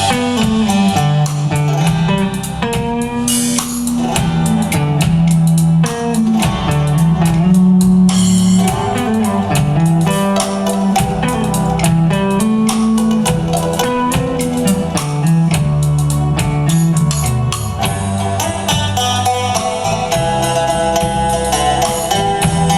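Indie-folk band playing live, with no vocals: guitar and drum kit over a stepping bass line.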